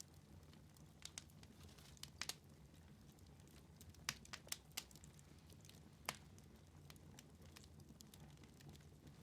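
Wood fire in a fireplace crackling softly: scattered sharp pops and snaps, bunched around two seconds in and again around four to five seconds, over a faint low rumble of the flames.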